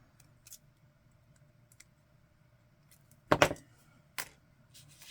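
Light clicks and rustles of craft materials being handled on a work table, then a loud knock a little past three seconds in and a sharp click just after four seconds.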